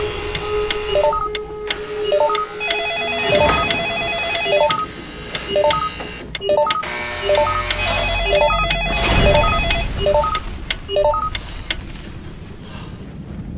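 Electronic phone-like beeps in a quick stepping melody, like a ringtone, with a held tone under them for the first couple of seconds.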